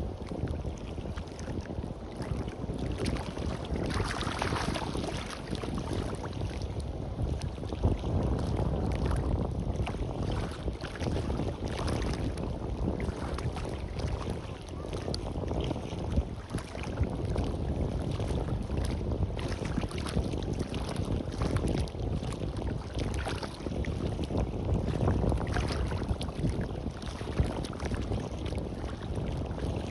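Sea surf washing on a beach, mixed with wind rumbling on the microphone, a steady low rush that swells and eases every few seconds.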